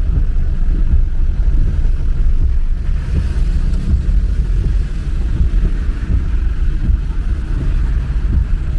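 Steady low rumble of a car on the move, engine and road noise with wind buffeting the microphone.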